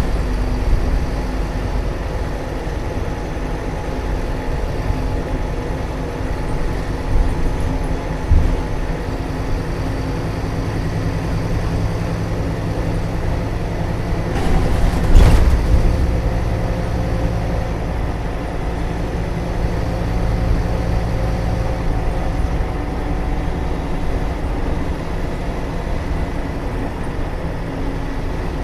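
Scania K320UA bus's rear-mounted 9.3-litre five-cylinder turbo diesel (DC09) running steadily, with a low drone and steady engine tones. A sudden loud noise cuts through about halfway through.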